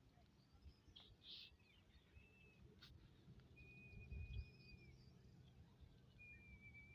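Faint outdoor bird calls: a few thin whistled notes, the longest held for about a second, with some brief chirps, over a low rumble that swells about four seconds in.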